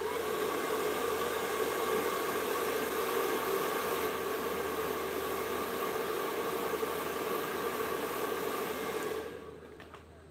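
An electric power tool's motor running steadily with a strong hiss and a steady hum for about nine seconds, then winding down over about a second.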